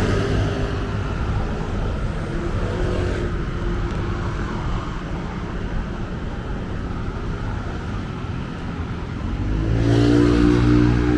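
Road traffic: a steady rumble of passing motor vehicles, with one vehicle's engine drone growing louder near the end.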